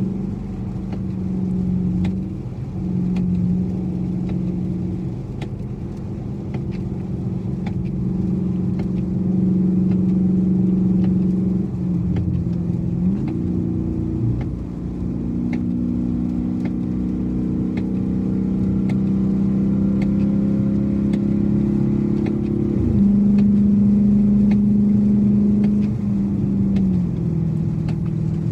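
2012 Dodge Challenger R/T's 5.7-litre Hemi V8 running at road speed. The engine note steps up sharply about twelve to thirteen seconds in, climbs steadily in pitch as the car accelerates, then drops suddenly at a gear change with a further step down near the end.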